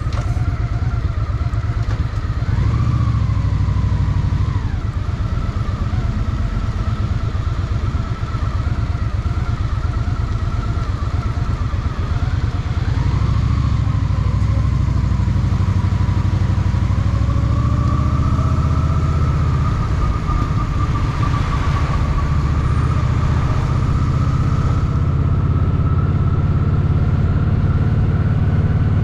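Honda Shadow VT750's V-twin engine running steadily as the motorcycle rides along, its pitch rising and falling gently with throttle and speed.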